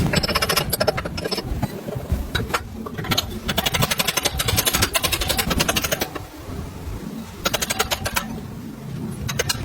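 Impact tool hammering in three rapid bursts, the longest in the middle, typical of breaking loose rusted fasteners.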